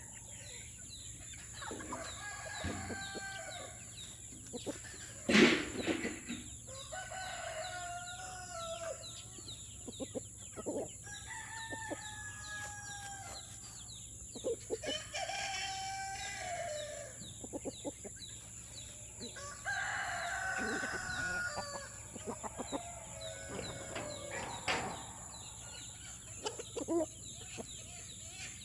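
Roosters crowing several times, a few seconds apart, with chickens clucking in between. A single sharp knock about five seconds in is the loudest sound.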